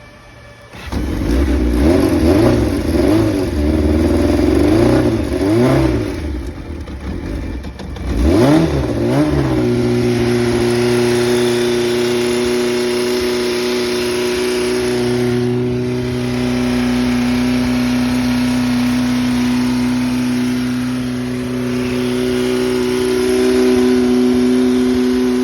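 Honda CBR400F's inline-four engine, revved in a series of throttle blips, then a further rev, then settling into a steady idle. The seller lists the engine as making an abnormal noise.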